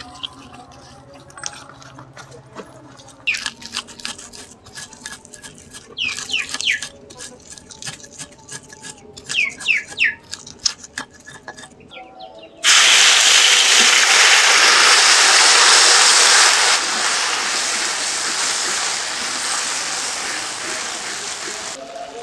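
Ground chilli spice paste dropped into hot oil in a wok, setting off a loud sizzle about halfway through that slowly dies down as it fries. Before that, only a few short, high chirps are heard.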